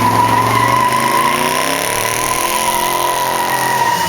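Car doing a burnout: the tyres squeal in one steady high note over the engine revving, and the squeal cuts off near the end.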